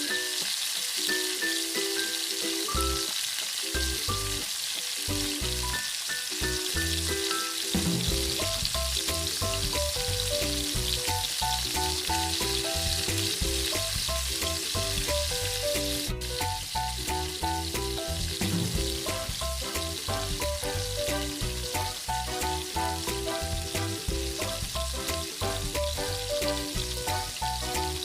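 Food frying and sizzling in hot oil in a cooking pot, a steady hiss throughout, with instrumental background music whose low beat comes in a few seconds in and grows fuller from about eight seconds.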